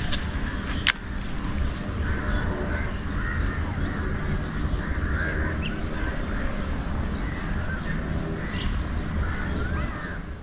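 Birds calling: many short, warbling calls over a steady low rumble. A sharp click comes about a second in.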